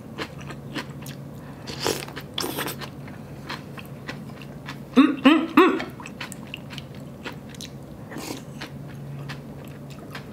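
Close-up wet chewing and mouth clicks of a person eating a spoonful of soft tofu from cold noodle soup, with a few short voiced hums about five seconds in.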